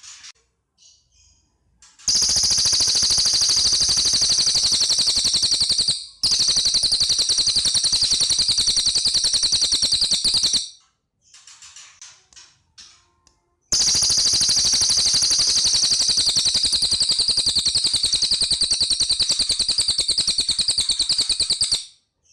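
Cililin songbird giving two long, loud machine-gun-like trills of very rapid high notes, each lasting about eight seconds with a brief gap, separated by a few faint short chirps.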